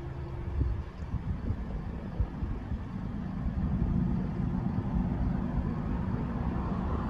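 A train rolling past with a steady low rumble that gets a little louder about halfway through.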